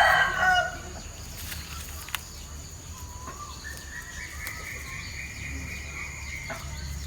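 A rooster crowing, its crow trailing off within the first second. Later there is a long, thin, high-pitched call held for about three seconds.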